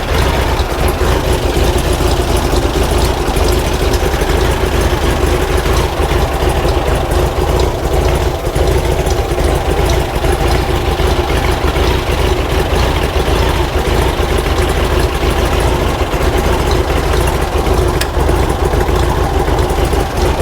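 Air-cooled flat-four engine of a 1950s VW Bus idling steadily.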